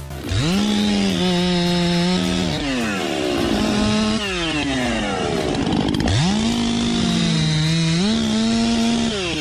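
Two-stroke chainsaw revved to full throttle twice. Each time the pitch sags for about a second under load, then climbs again before falling back toward idle.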